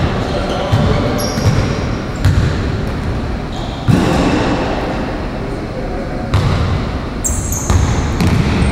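A basketball being dribbled on a hard court, bouncing about once every three-quarters of a second.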